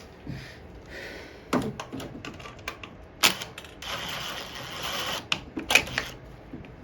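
Hand work on a lawn mower's carburetor mounting: irregular sharp metal clicks and knocks as bolts and parts are handled and fitted, with a brief rustling scrape in the middle.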